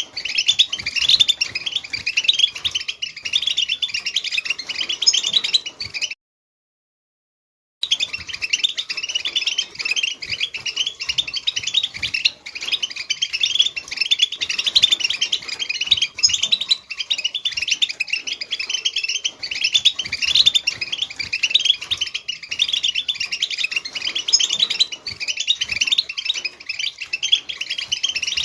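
European goldfinch song: a rapid, continuous twittering of quick chirps and trills. It breaks off into total silence for about a second and a half some six seconds in, then resumes.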